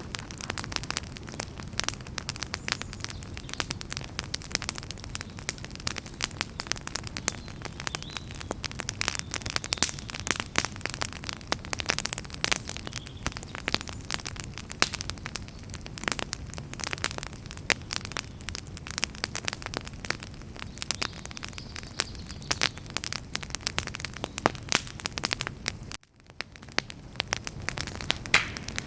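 Campfire of burning firewood crackling and popping, with many irregular sharp pops over a steady low rush of flame. About three-quarters of the way through, the sound drops out abruptly for a moment and then fades back in.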